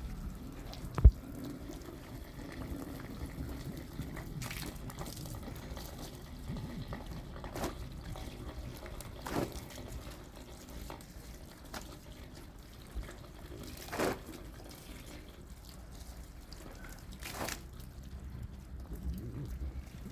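Water dripping and splashing during household washing. A sharp knock comes about a second in, and lighter knocks follow now and then.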